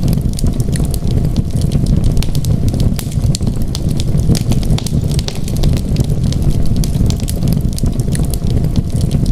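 Wood fire burning: a steady low rumble of flames with frequent small, sharp crackles and pops throughout.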